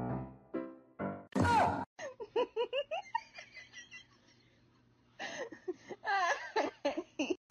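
A few notes of music, then a short loud cry, then a person laughing in two spells of giggles with a pause between.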